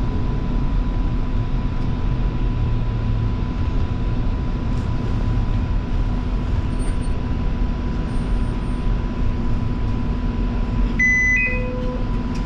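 Cabin sound of a Line 5 Eglinton light rail vehicle (Flexity Freedom) dwelling at a station: a steady low rumble and equipment hum with a constant thin high tone. About eleven seconds in, a short electronic beep of a few stepped tones sounds.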